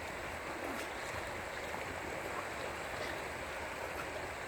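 Mountain stream water flowing: a steady, even rushing.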